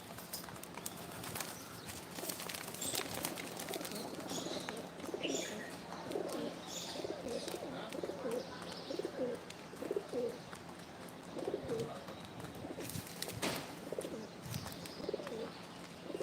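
Pigeons cooing in a run of repeated low phrases, with a few higher chirps from other birds in the first half and scattered clicks, one sharp knock near the end.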